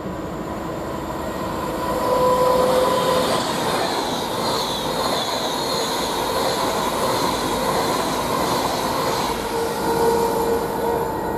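Virgin Trains Class 390 Pendolino electric train passing at speed, with the rush of wheels on rail and air building about two seconds in, over a freight train of loaded wagons rolling past on the far line. Brief high steady tones sound about two seconds in and again near the end.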